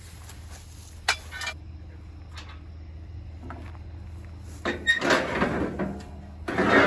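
Metal clanking of a tow bar being unhooked and handled: a single sharp knock about a second in, then louder clattering near the end, over a low steady hum.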